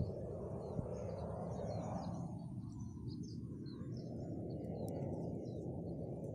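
Small birds chirping in many quick, short, high calls, scattered through and thickest in the middle, over a steady low background rumble.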